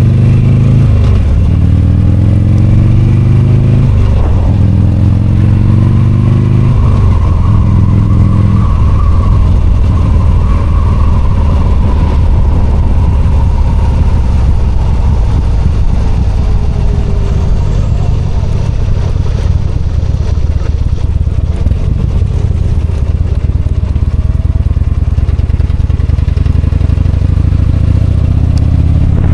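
V-twin motorcycle engine heard from the rider's seat, accelerating up through the gears over the first several seconds, its pitch climbing and dropping at each shift. It then runs steadily at cruising speed and begins climbing again near the end.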